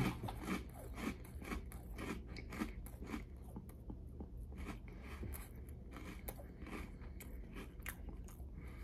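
A person chewing a mouthful of Magic Spoon peanut butter cereal, with a run of faint, irregular crunches a few times a second.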